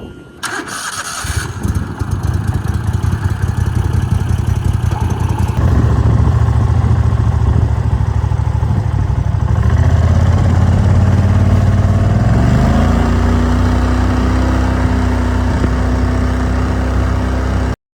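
Boat motor starting and running loudly. About twelve seconds in, it is throttled up to a higher, steady pitch, then the sound cuts off abruptly.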